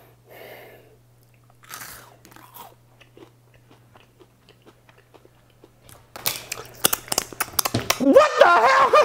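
A mouthful of crunchy Funyuns onion rings with cream cheese being chewed, with faint crunches at first. About six seconds in comes a run of loud, sharp crunches and smacks, and near the end a man vocalises without words.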